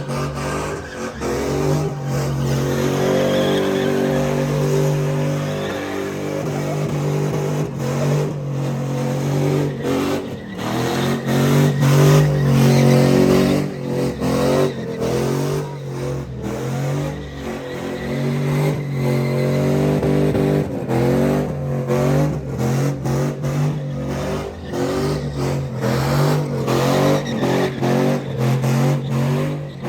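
Car engine revving hard, its pitch rising and falling again and again, with many sharp cracks through it.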